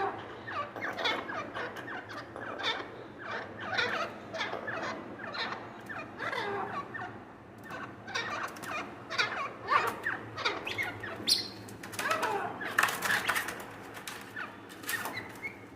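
Francolins giving a dense, busy run of short chirps and clucks while feeding, many of the notes sliding down in pitch, with short sharp clicks mixed in.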